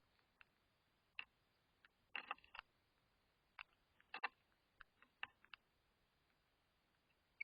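Birds pecking at seed, heard as faint, irregular clicks and taps, with a quick cluster of them about two seconds in.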